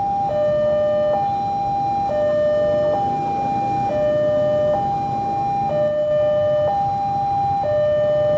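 Electronic warning alarm of a railway level crossing sounding: a loud two-tone high-low signal, each tone held just under a second and repeating steadily, warning that a train is approaching.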